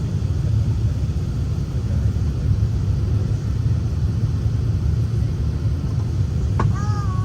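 Steady low rumble inside the cabin of an Emirates Airbus A380 on the ground. Near the end a click is followed by a short pitched sound.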